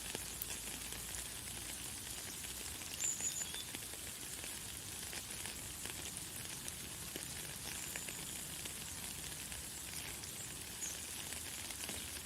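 Light, fine rain falling as a steady high hiss with scattered tiny drop ticks. A few brief, high bird chirps sound over it, the loudest about three seconds in and another near the end.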